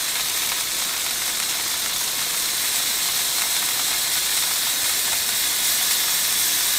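Flour-coated mushrooms frying in butter in a skillet, a steady sizzle with freshly added butter in the pan.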